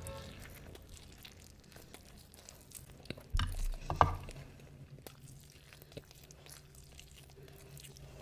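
Close-miked eating by hand: quiet chewing and handling of mutton biryani, with a couple of louder soft thuds a little past three seconds in and a sharp knock about four seconds in.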